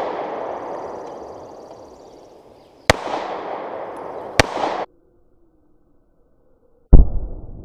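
Two pistol shots about a second and a half apart, each echoing through the woods; the sound then cuts off abruptly. Near the end comes a loud, deep thump followed by rumbling: a bullet striking the ground right beside a microphone at ground level by the target.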